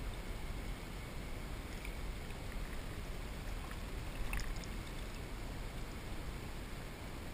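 Steady hiss of lagoon water moving around a kayak, with a brief cluster of faint clicks or small splashes about four seconds in.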